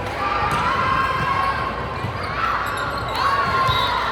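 Basketball game sounds on a hardwood court: a ball dribbled in repeated thuds, with sneakers squeaking in short sliding squeals.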